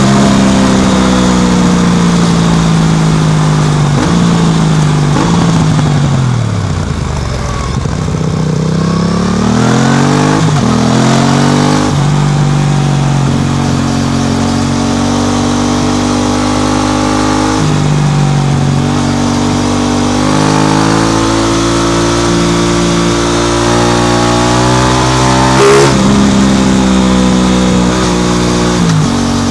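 Aprilia RS660's parallel-twin engine breathing through an SC Project exhaust while being ridden. Its pitch falls as the bike slows for several seconds, then climbs in steps as it pulls away through the gears. It then runs on at moderate revs with a few more shifts.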